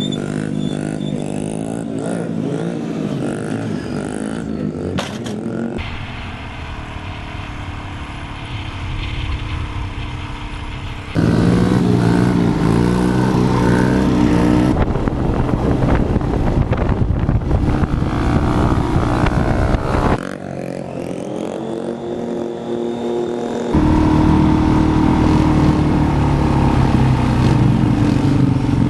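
Small single-cylinder pit bike engines revving up and down as they are ridden, with the sound changing abruptly several times where clips are cut together; the loudest stretches are the bike passing close in the middle and near the end.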